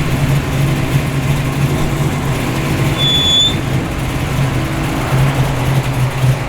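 A car engine idling with a steady low note, from a muscle car at close range.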